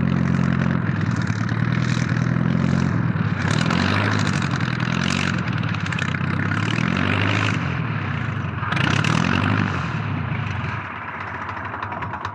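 Propeller engine of a single-prop Blériot airplane running, its pitch repeatedly rising and falling every second or two. It drops to a lower, quieter run about eleven seconds in.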